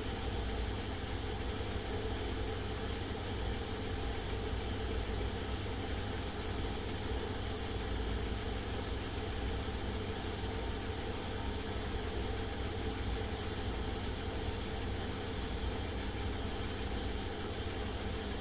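Washing machine running: a steady low rumble and even whooshing hum, unchanging throughout.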